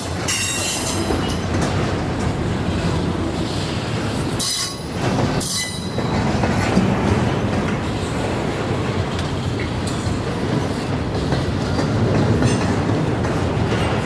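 Train rolling past, its railcars rattling over the rail joints with a steady clatter. Its wheels squeal in high-pitched bursts about a second in and again around the middle.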